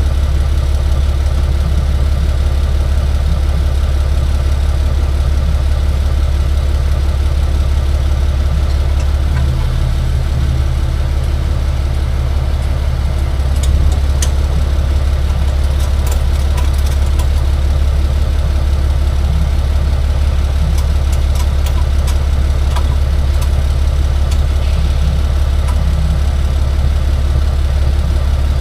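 Tow truck's engine running steadily with a deep, unbroken low drone.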